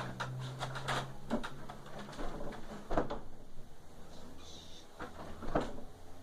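A series of irregular clicks and knocks, like objects being handled and bumped, over a low steady hum; the strongest knocks come about three seconds in and near the end.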